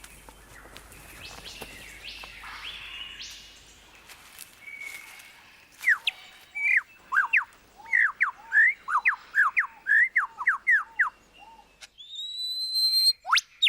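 Superb lyrebird singing. After a few seconds of faint forest bird calls comes a loud, rapid run of sharp sweeping notes, about three a second, followed near the end by a long rising whistle.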